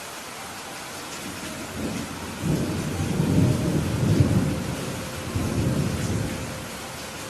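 Steady rain hissing, with a low rolling rumble of thunder that builds about two seconds in, peaks near the middle and fades away before the end.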